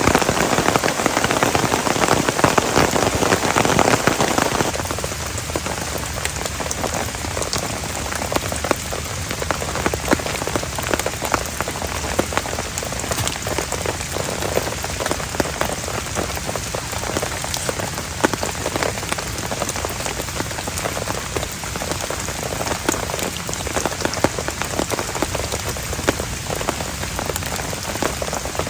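Heavy rain falling, a dense hiss full of individual drop hits. It is louder and fuller for the first few seconds, then steps down about five seconds in and holds steady.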